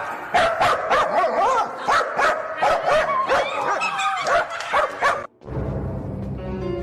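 A dog yipping and whining in short cries that bend up and down in pitch, one after another. It cuts off suddenly about five seconds in, and music starts.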